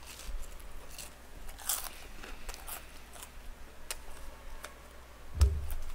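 Close-miked crunching and chewing of crisp boneless fried chicken: a string of short crackly crunches. A low thump about five and a half seconds in.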